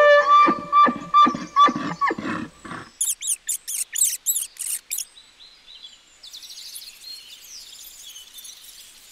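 Bull elk calling: a run of pitched, pulsing calls for about three seconds. Then guinea pigs squealing, a quick series of high squeaks, followed by fainter squeaking and chirping.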